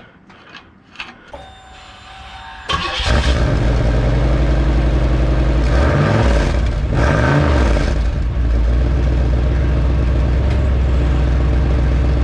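Car engine starting about three seconds in, then running loudly at idle with a couple of brief revs. The tailpipe has a cheap turbo-whistle insert fitted.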